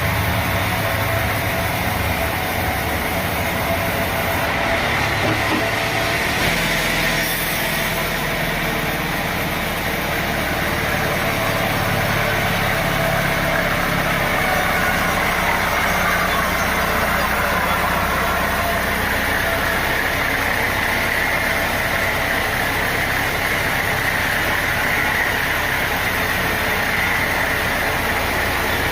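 Sawmill machinery running steadily, a continuous engine-like drone with a hiss over it and no breaks.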